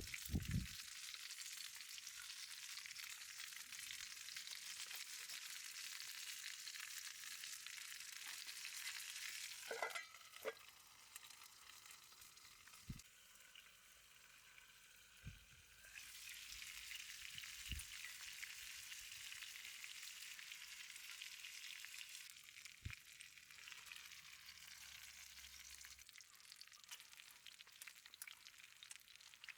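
Food frying in a pan with a steady sizzle that eases off about ten seconds in and comes back strongly around sixteen seconds, with a few light knocks along the way.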